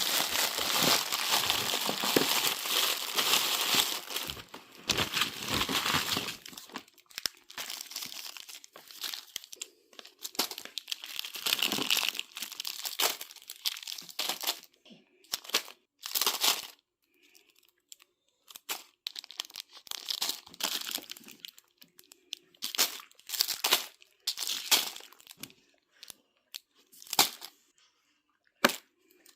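Wrappers crinkling and tearing as candy is handled and unwrapped: a dense stretch for the first several seconds, then short bursts with pauses between.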